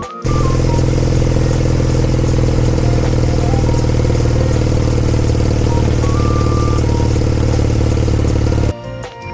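Kawasaki W800's air-cooled parallel-twin engine running steadily through a Yamato aftermarket muffler, a deep, even exhaust note that cuts in and cuts off abruptly.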